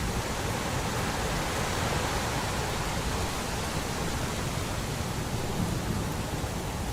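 Steady, even rain noise with a low rumble underneath, swelling slightly in the first half.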